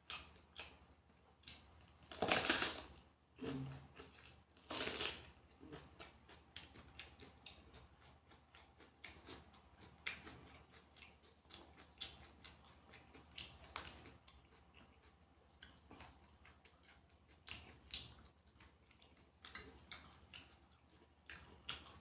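Close-up eating sounds: chewing with scattered small clicks and crackles, and two louder crunching bites a couple of seconds apart early on.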